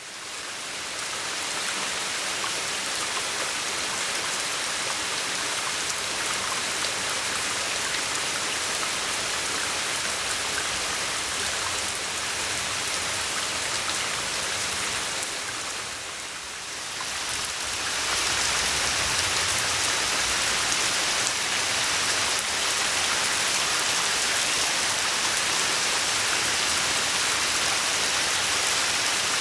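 Steady rain falling on a garden pond, a dense even hiss. It dips briefly about sixteen seconds in, then comes back slightly louder.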